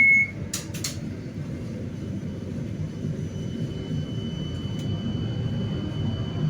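Low-floor 71-931M Vityaz-M tram heard on board: a high steady beep stops right at the start, and a couple of sharp knocks follow. After that comes a steady low rumble of the car running on the rails, and a thin high whine from the traction equipment joins about halfway.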